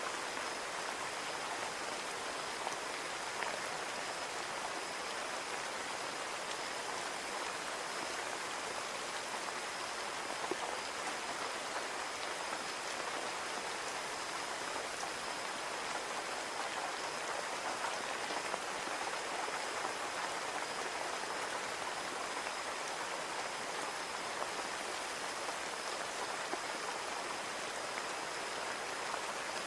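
Steady rain falling against a window, a dense even patter with scattered individual drop ticks, a faint steady high whistle underneath.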